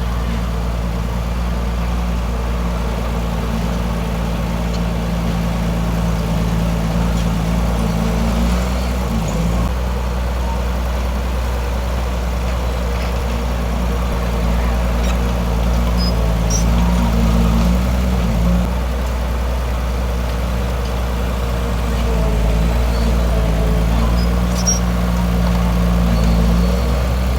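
Heavy diesel engine of earthmoving machinery running steadily, pulling harder several times as the load rises, with a few faint clicks.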